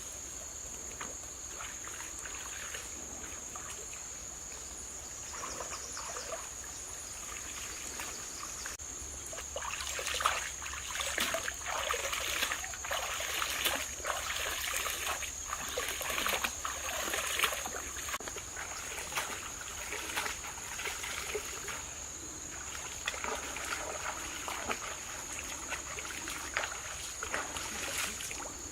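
Water trickling and splashing in irregular bursts, busiest through the middle, with a steady high thin whine underneath.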